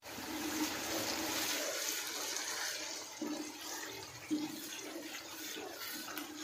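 Chicken keema masala sizzling and bubbling in hot oil in a non-stick kadai, with a few strokes of a wooden spatula as it is stirred while it fries down.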